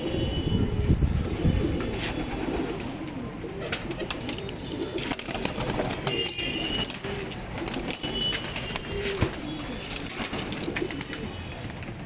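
Several Saharanpuri pigeons cooing, a steady overlapping warble, with scattered sharp clicks and a few short high chirps.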